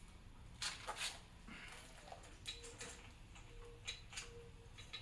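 Faint, irregular clicks and taps of small metal engine parts and hand tools being handled, a few sharper ticks among them.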